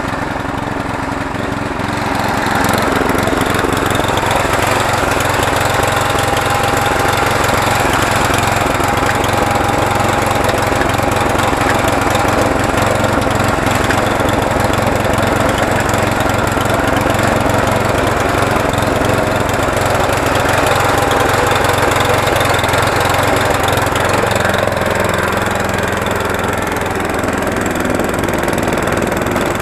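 Small gasoline engine with a primer and choke, running steadily on its first run since it sat drained of fuel since last year. Its sound shifts slightly about two seconds in and again near the end.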